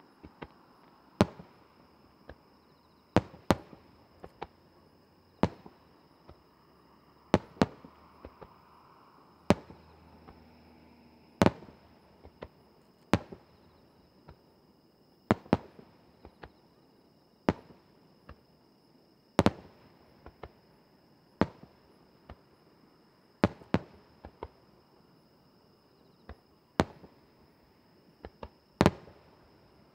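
Aerial firework shells bursting one after another: a sharp bang about every two seconds, some as quick double reports.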